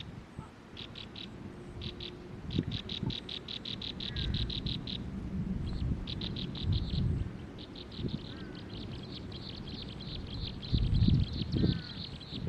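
A bird calling in rapid trains of short, high, evenly repeated notes, about six a second, pausing and restarting several times, then running on without a break. Low, muffled thuds sound underneath now and then, loudest twice near the end.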